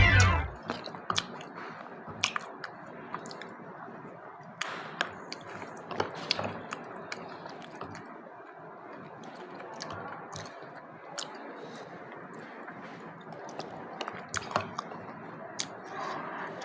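Wet kitchen handling of custard: irregular light clicks, as of a utensil against a bowl, over soft wet squishing.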